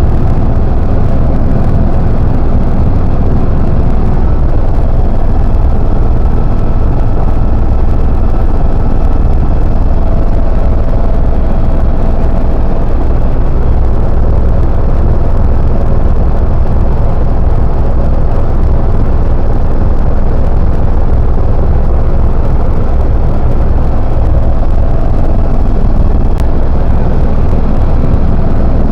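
Helicopter in flight heard from inside the cabin: a loud, steady drone of engine and rotor with a faint steady whine over it.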